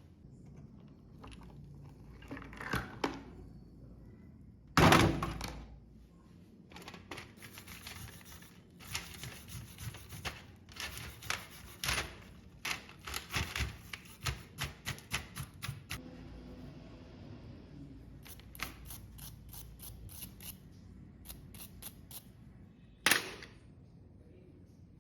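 Hand work on metal parts: irregular clicks, taps and knocks, with a quick run of light taps in the middle and near the end, and a loud thunk about five seconds in and again near the end.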